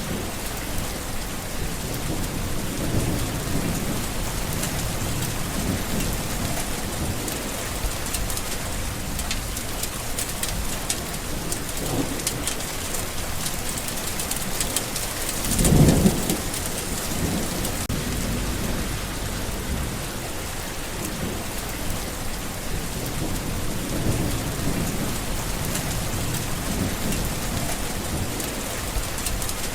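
Steady rain falling, with soft low rumbles of thunder now and then and one louder, short rumble about halfway through.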